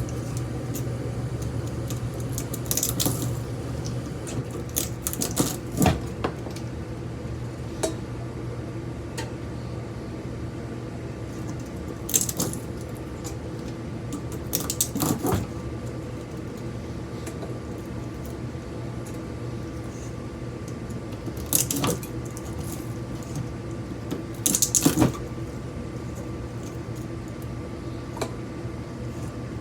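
Metal parts and tools clinking and clattering in short bursts, about eight times, as a ceiling fan motor is taken apart for scrap, over a steady background hum.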